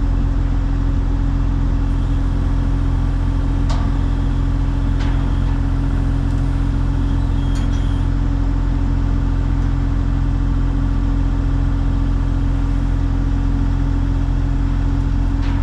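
Excavator diesel engine running at a steady speed, with a few light knocks.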